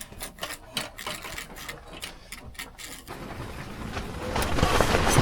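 Quick, even clicking of a utensil against a small metal dalgona ladle for about three seconds. Then a hiss starts and grows steadily louder.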